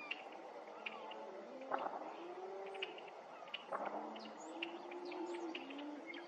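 Red-winged blackbirds calling, a scatter of short, sharp chips at irregular intervals, with lower drawn-out calls sounding underneath.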